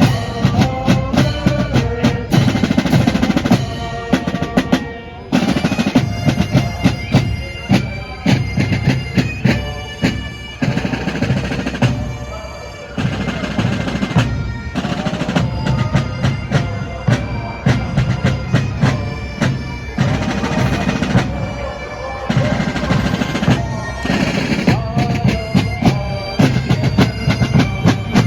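Bagpipes and drums playing a tune together, held pipe notes over snare rolls and bass drum beats.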